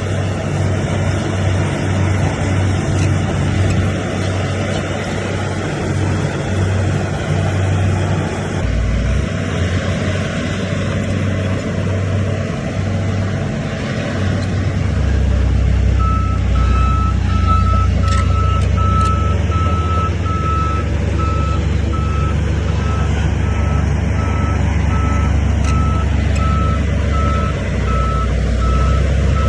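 Heavy diesel earthmoving machine, a bulldozer, running steadily, its engine growing louder about halfway through. From then on a reversing alarm beeps at an even pace.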